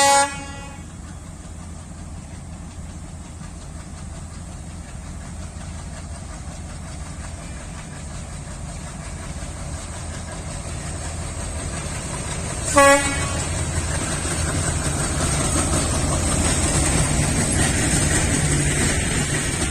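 DL560C diesel-electric locomotive sounding two short horn toots, one at the start and one about thirteen seconds in. Under them the rumble of the train grows steadily louder as it draws near.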